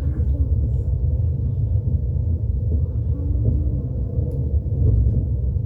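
Steady low rumble of a DSB Regio regional train running, heard from inside the carriage.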